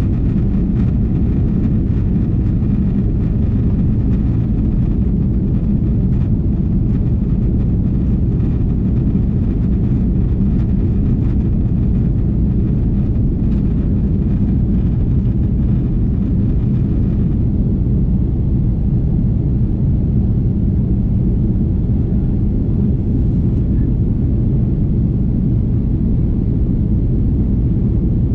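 Steady low roar of an Airbus A330-300's engines and rushing air, heard inside the passenger cabin.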